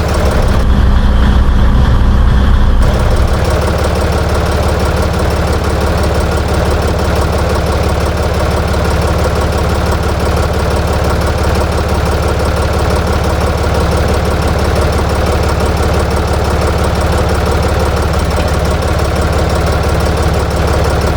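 Ditch Witch trencher-backhoe's air-cooled three-cylinder Deutz diesel running steadily; for the first three seconds it is louder and deeper, then it settles to an even drone.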